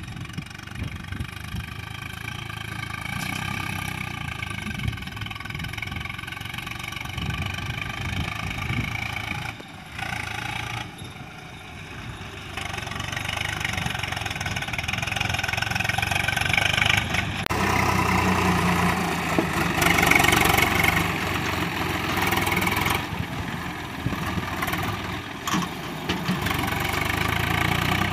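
Diesel tractor engine running, with a brief drop about ten seconds in and running louder from a little past halfway.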